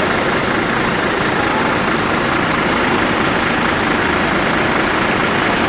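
Steady, loud running noise of a bus: engine and road noise.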